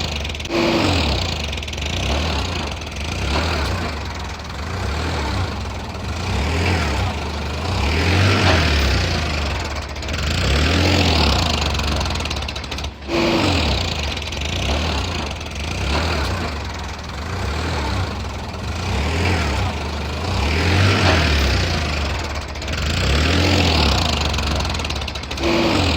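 Tractor engine running steadily, swelling and easing every couple of seconds. The same stretch of sound repeats about halfway through, like a looped recording.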